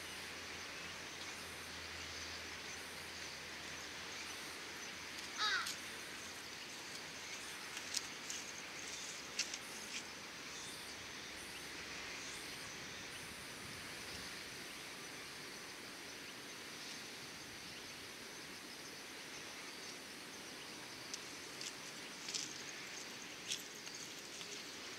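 Steady outdoor evening ambience, a low even hiss. A single short bird call sounds about five seconds in, and a few faint sharp clicks come later.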